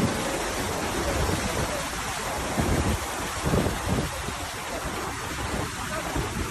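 Heavy rain and rushing floodwater: a steady hiss, with uneven low rumbles underneath.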